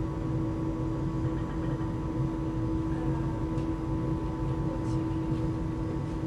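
Steady machinery hum aboard the Norwegian coastal ship Polarlys under way: a constant drone with a low rumble and a held tone over it.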